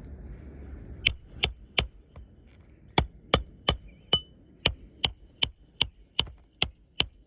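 Hammer striking a steel roof snake to drive a roofing nail under a shingle, each blow with a short metallic ring. Three quick blows about a second in, then after a pause a steady run of about two and a half blows a second.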